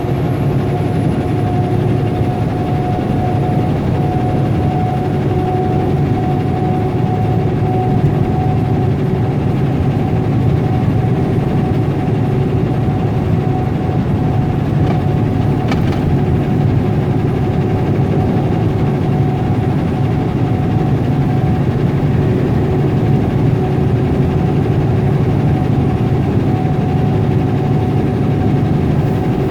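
Tractor-trailer driving at highway speed, heard from inside the cab: a steady diesel engine and road drone with a faint, even whine over it.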